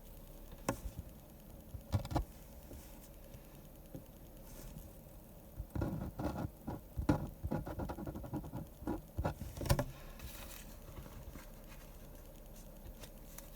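Pen scratching and tapping on paper in short quick strokes, with a couple of single taps and then a dense run of strokes in the middle that stops after a few seconds.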